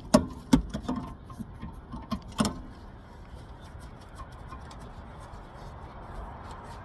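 Sharp, evenly spaced metallic clicks, about three a second, from a hand tool working the rear brake caliper bolts. The clicks grow fainter and stop about two and a half seconds in, leaving a steady background hum.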